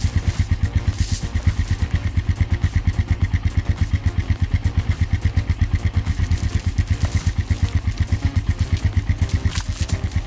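An engine running at a steady low speed, its exhaust pulsing in a fast, even beat.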